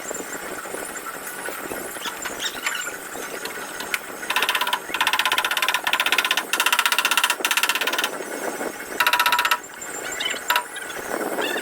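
A power tool runs in several short bursts of about half a second to a second each, making a fast, buzzing rattle with a steady whine.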